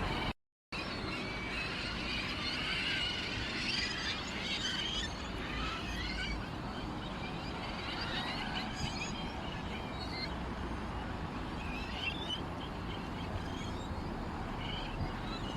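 Sparrows chirping in many short, overlapping calls over a steady outdoor background noise. The sound cuts out completely for a moment just after the start.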